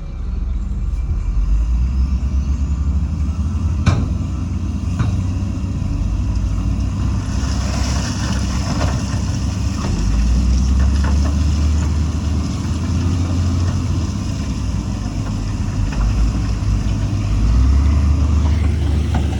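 Heavy diesel engine of an earthmoving machine running under load, with a couple of sharp clanks and a brief hiss.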